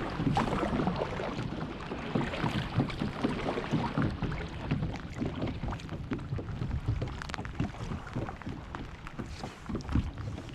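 Rain falling on the water and on a fishing kayak: a steady patter of many small, irregular drop taps.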